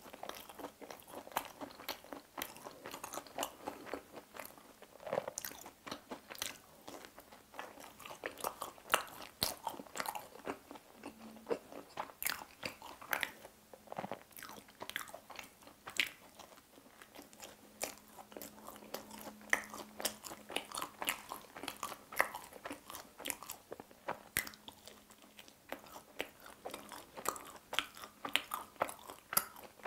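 Pizza crust being bitten and chewed, with many quick, crisp crunching clicks.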